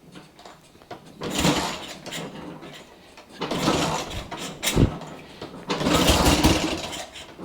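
1969 Triumph Trident's three-cylinder engine running and revved in three short bursts while its carburettors are being balanced; the far-left cylinder is running erratically.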